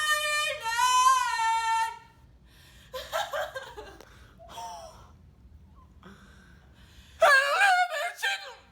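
A person's voice making drawn-out, wordless sounds that slide up and down in pitch over the first two seconds. Short, quieter vocal sounds follow, then a loud burst of voice near the end.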